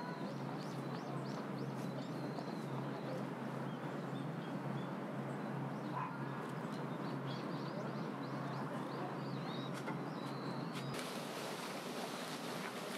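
Small birds chirping in quick runs of short, high notes, in two bouts, over a steady background hiss. About two seconds before the end the background changes abruptly to a brighter hiss.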